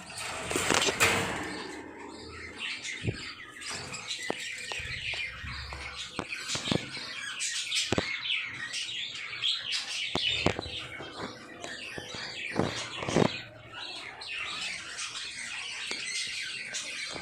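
Several lovebirds chirping rapidly and continuously in a busy high twittering, with a few short sharp knocks in between.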